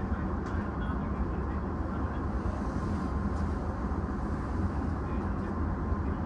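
Steady low rumble and hum of an E233-series electric train, heard from inside the rear cab, with a faint steady tone running through it.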